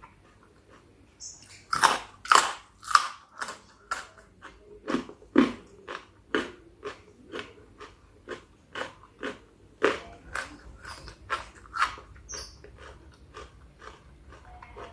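Close-miked chewing and biting of spicy chicken-feet salad: a run of crunches and wet mouth clicks, about two a second, starting about two seconds in, loudest at first and tapering off near the end.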